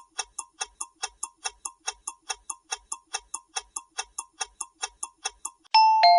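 Quiz countdown timer sound effect ticking steadily about four times a second, then a two-note chime near the end, the second note lower, ringing on as the time runs out.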